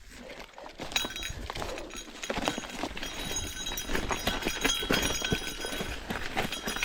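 Footsteps crunching over loose rock and gravel while a gravel bike is pushed alongside, with irregular clinks and rattles from the bike and stones.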